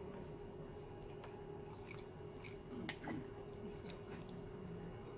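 Close-up chewing and eating of pasta, with a few light clicks of a metal fork against a plate, the sharpest about three seconds in, over a steady low hum.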